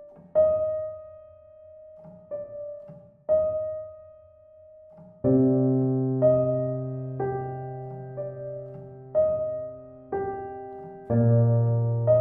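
Solo piano music: slow single notes ringing out at first, then fuller chords with a low bass from about five seconds in.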